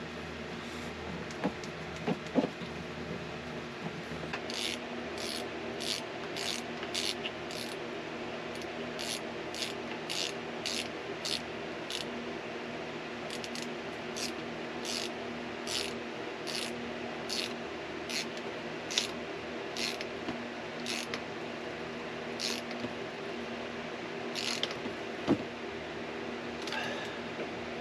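Small socket ratchet clicking in short, even strokes, about two clicks a second, as a hose clamp on a boat engine's raw-water cooling line is tightened. The clicking stops about three-quarters of the way through, and a couple of sharper knocks follow.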